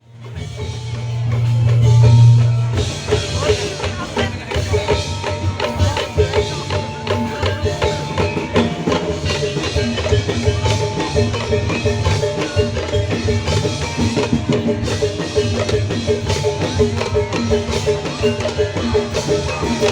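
Tongklek ensemble playing: bamboo kentongan slit drums and drums in a fast, steady rhythm with pitched tones over it. The first three seconds hold a low swelling boom before the beat starts.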